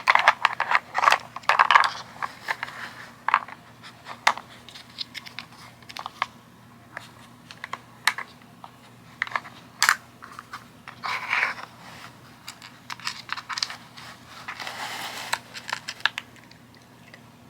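Irregular clicks and short rattles of a plastic treat puzzle, its sliding pieces and lids knocked about, with dry kibble shifting inside as a cat paws at it.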